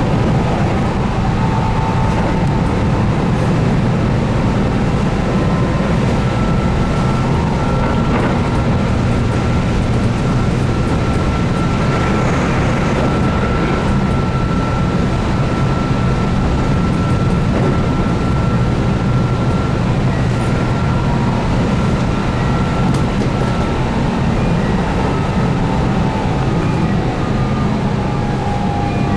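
Keihan 8000 series electric train running at speed, heard from on board: steady rumble of wheels on rail under the whine of its DC traction motors with field-addition excitation control. The whine holds one pitch and, near the end, gives way to a lower tone.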